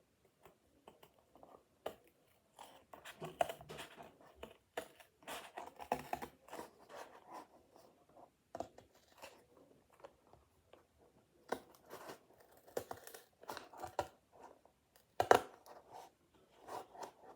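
Scissors cutting stiff paper or card, an uneven run of crunching snips and rustles, with the loudest snap about fifteen seconds in.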